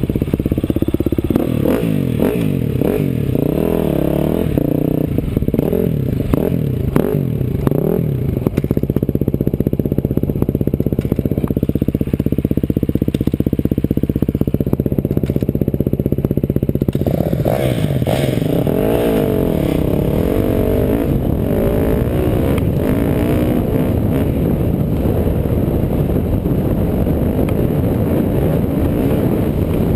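Off-road vehicle engine running under a rider, revving up and down over and over, with rattling and clatter. From about halfway through, wind noise and rough-terrain noise mix in and the engine note evens out.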